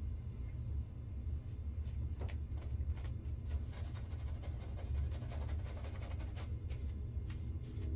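Razor scraping through lathered stubble in a series of short strokes, over a steady low hum.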